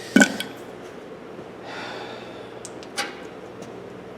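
Metal toolbox parts being handled. A sharp knock comes just after the start and a lighter click about three seconds in, with a short breathy rush between them.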